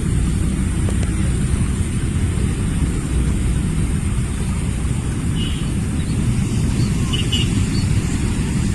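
Steady low rumble of wind buffeting the microphone, with a few faint high chirps around the middle.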